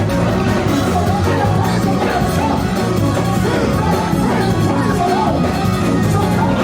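Church band playing steadily and loudly, with singing and congregation voices mixed in.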